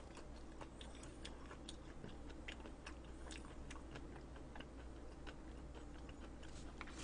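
A person chewing a mouthful of food, faint, with small irregular mouth clicks a few times a second over a low steady hum.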